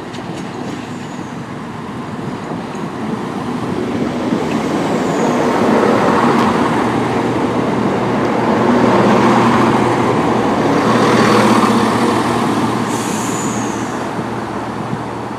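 Class 170 Turbostar diesel multiple unit pulling away, its underfloor diesel engines running under power. The sound swells to a peak in the middle and then fades as the train moves off, with a brief faint high squeal near the end.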